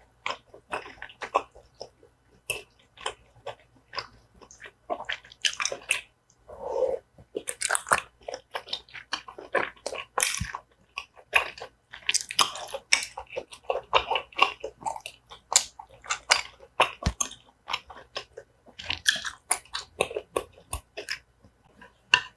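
Close-miked chewing and biting of tteokbokki rice cakes in sauce: a steady run of short mouth smacks and clicks.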